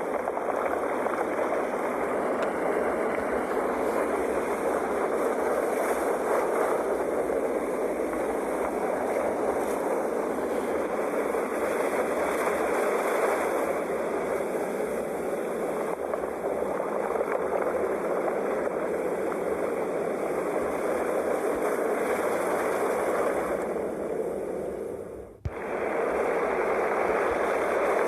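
Sea waves washing and breaking in a continuous rush of surf, swelling and easing slowly. The sound drops out sharply for a moment about 25 seconds in.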